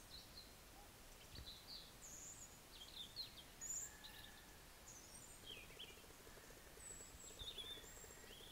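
Faint birds chirping and calling outdoors: many short, scattered high notes over a low steady background hiss.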